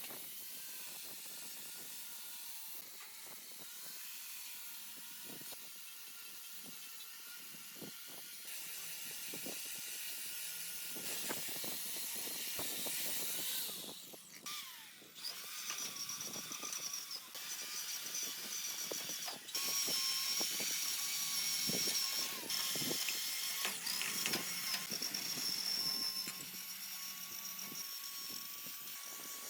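Metalworking sounds: a small power tool running with a steady high whine, along with scraping and clicking on metal. The sound changes abruptly a few times as clips are cut together.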